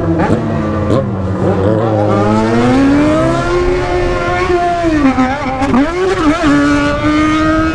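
Motorcycle engine running hard, its pitch climbing over the first few seconds, dipping twice around the middle as the revs drop and recover, then holding steady.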